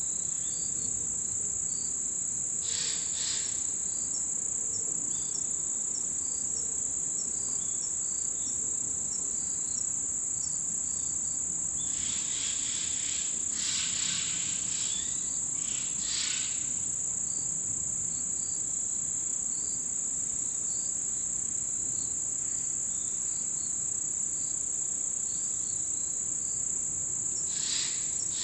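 Chorus of autumn crickets and other insects: a steady, high, unbroken trill, with softer short chirps repeating about twice a second beneath it. A few brief, louder, rougher bursts stand out, one about three seconds in, several in the middle and a couple near the end.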